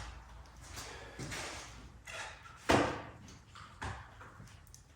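Scattered knocks and clinks of hand tools and parts being handled during work on a truck's cooling system, with one sharp knock a little past halfway.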